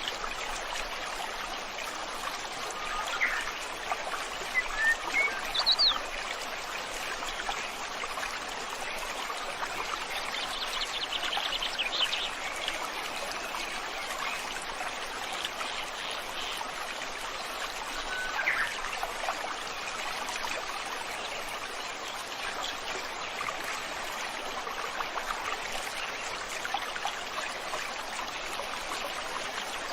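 A river stream flowing with a steady rushing and trickling. Birds call over it a few times: short chirps, and a brief rapid trill about a third of the way in.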